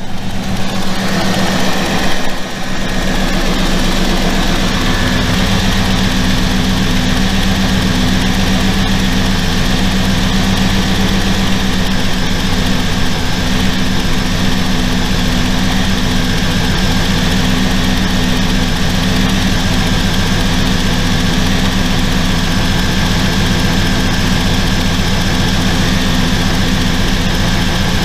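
A 1993 Chevrolet Camaro's LT1 5.7-litre V8 idling steadily while it warms up, its thermostat not yet open.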